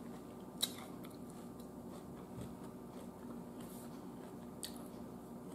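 Faint chewing of food in the mouth, with two small clicks.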